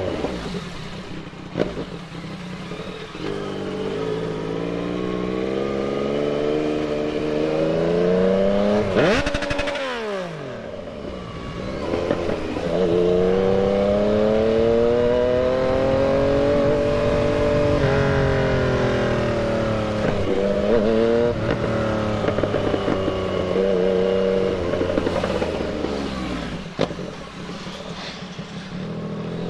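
Yamaha MT-09's inline three-cylinder engine riding through traffic, its pitch climbing under throttle and falling as it eases off several times, with a long pull and slow wind-down in the middle.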